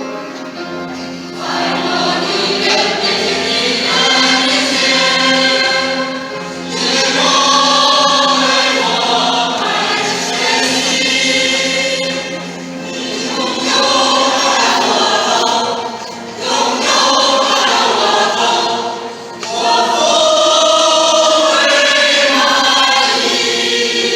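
Many voices singing a hymn together in sung phrases, with short pauses between the phrases.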